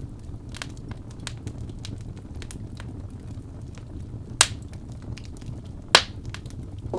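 Campfire crackling: a steady low rumble of burning wood with scattered sharp pops, two louder snaps near the end.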